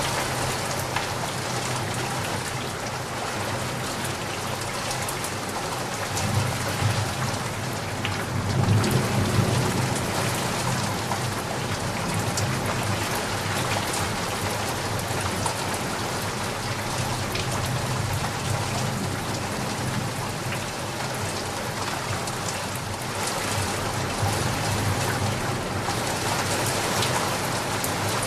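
Steady rain falling, an even hiss of drops, with a low rumble of distant thunder swelling and fading about six to ten seconds in.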